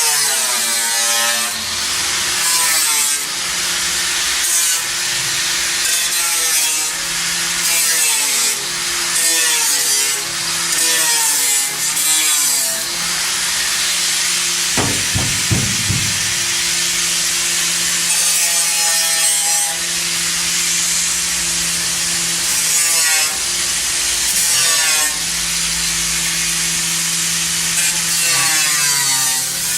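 Hand saw cutting, with repeated back-and-forth strokes about a second apart over a steady low hum. A few dull knocks come about halfway through.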